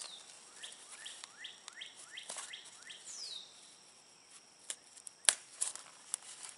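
A songbird calling: a quick run of short downward-sweeping chirps, then one longer falling whistle about three seconds in. Later come a few sharp clicks and taps from a small cardboard worm carton being opened and handled, the loudest about five seconds in.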